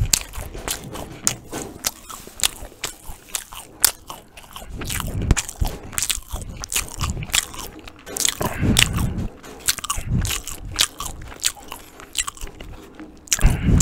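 Close-miked biting and chewing of crusty Turkish Ramazan bread spread with ajvar: the crust crackles and crunches, with many sharp mouth clicks between bites.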